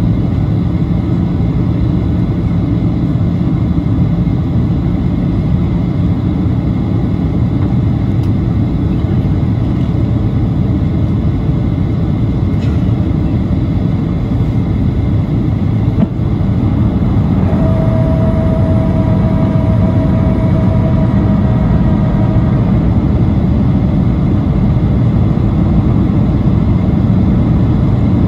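Steady engine and airflow noise inside the cabin of a Boeing 737-800 in flight. About sixteen seconds in it gets a little louder, and a steady whine sounds for about five seconds.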